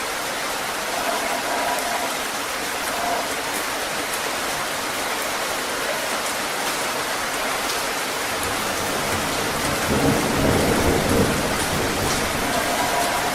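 Heavy rain falling steadily, with a low roll of thunder building from about eight seconds in and loudest around ten to eleven seconds.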